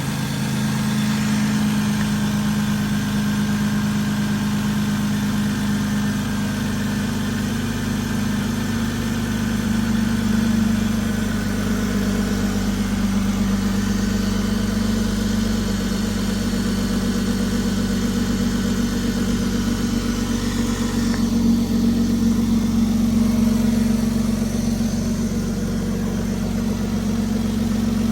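Toyota 2JZ-GE 3.0-litre inline-six engine idling steadily, with small swells in loudness about a third and three quarters of the way through.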